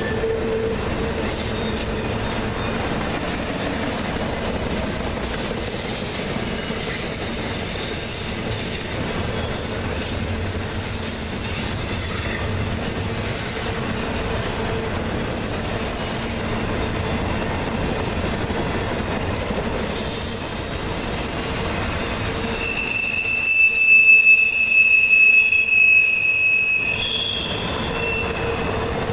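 Freight train rolling past, its wheels on the rail making a steady rumble. About two-thirds of the way through, a loud, high, steady wheel squeal rings out for about four seconds.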